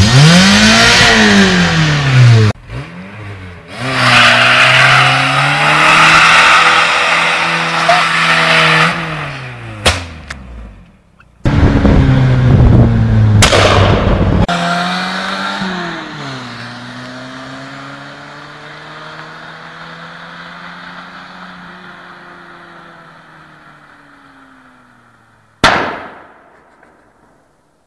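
Renault 19 1.7 GTS four-cylinder petrol engine heard from inside the car, revved hard in several runs: the engine note climbs, breaks off at each gear change, and picks up again. Later the note settles lower, sinks slowly and fades, with one short loud burst near the end.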